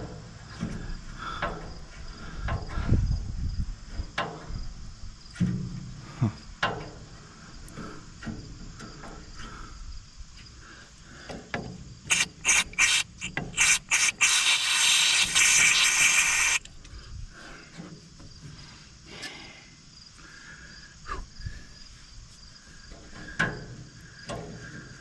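Metal parts and tools clicking and knocking while the tractor's fuel line is worked on. About halfway through come several short hisses, then a steady hiss of roughly two and a half seconds that cuts off sharply: an aerosol cleaner sprayed through its straw to clear the blocked fuel passage.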